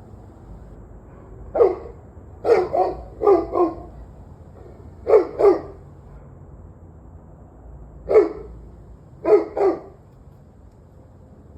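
A dog barking: about ten sharp barks, mostly in quick pairs, with pauses of one to two seconds between the groups.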